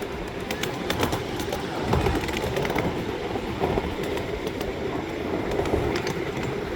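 A train running along the tracks: a steady rolling noise with scattered sharp clicks.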